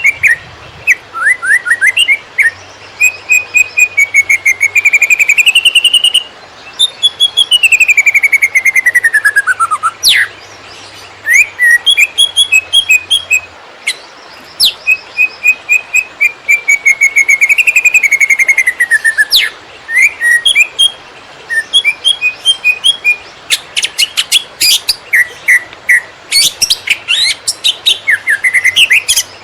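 Cucak ijo (green leafbird) singing loudly and continuously in the fast, stuttering 'konslet' style: rapid chirps and note runs, long whistled glides that rise and fall, and bursts of quick repeated notes.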